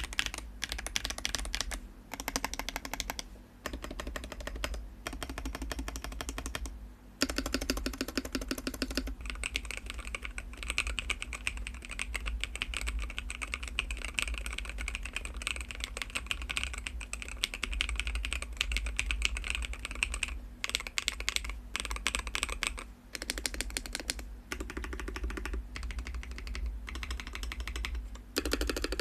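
Fast typing on a Hall-effect magnetic-switch mechanical keyboard: a dense clatter of keystrokes, broken by a few short pauses.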